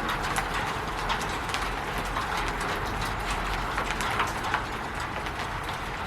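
Rain falling on a roof: a steady hiss of rain with many irregular drops tapping and plinking on the surface.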